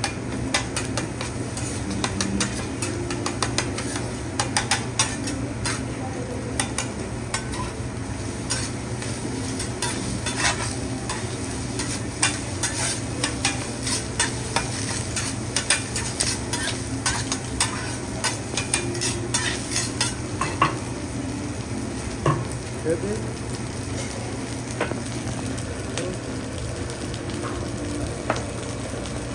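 Food sizzling in garlic butter on a hibachi griddle, with metal spatulas rapidly clicking and scraping against the steel cooktop. The clicks come thickest through the first two-thirds, then thin out.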